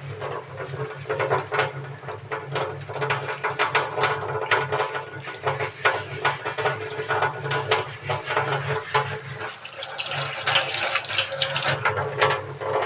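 Running water splashing while raw pork meat is rinsed and rubbed clean by hand, with irregular splashes and knocks of the meat throughout.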